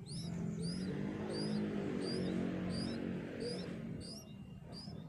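Yellow-vented bulbul chirping over and over, short high rising-and-falling notes about two or three a second. Underneath, a louder low drone with a few steady pitches fades out about four seconds in.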